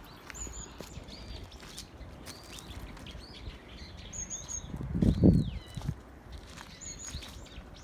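Wild birds singing and chirping, short high notes and curved whistled calls repeating every second or so. A brief low rumble swells and fades about five seconds in, the loudest thing heard.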